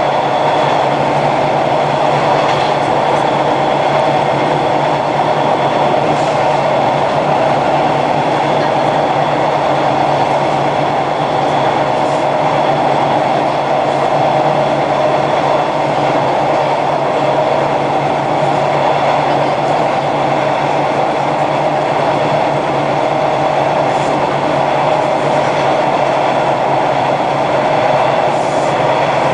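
Hawker Siddeley H4 subway car running along the track, heard on board: a steady loud rumble with a low hum and a faint high whine, and an occasional click from the wheels.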